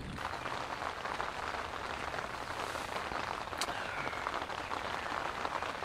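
Steady rain pattering, with one sharper tick about halfway through.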